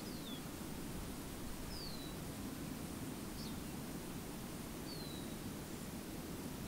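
A bird repeating a short whistle that falls in pitch, four times at about one-and-a-half-second intervals, over a steady low rushing outdoor ambience.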